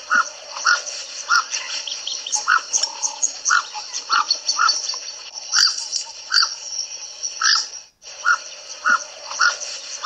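Field recording of a Southern African bird call: a short note repeated irregularly, about once or twice a second, over a dense, high chirring background. The recording breaks off about eight seconds in and starts again.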